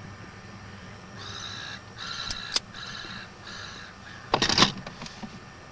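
A crow-like bird cawing four times in a row, each call about half a second long, followed a little later by a brief loud rustle.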